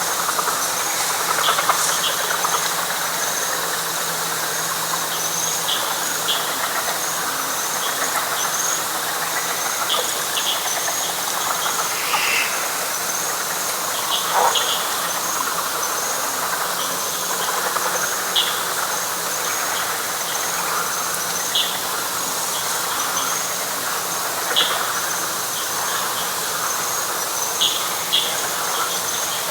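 Night chorus of frogs and insects in a wet pine flatwoods: a dense, steady frog chorus, a continuous high pulsing insect trill above it, and short high chirping calls every second or two.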